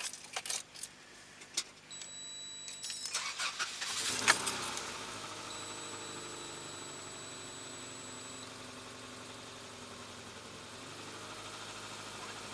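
Subaru EJ-series boxer four-cylinder engine being started: a few clicks, a couple of seconds of cranking, then it catches about four seconds in and settles into a steady idle. This is its first start after a new timing belt and tensioner were fitted.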